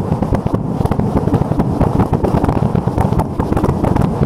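A fireworks finale exploding right at the camera: a dense, unbroken string of sharp cracks and bangs over a heavy low rumble, one burst on top of another with no pause.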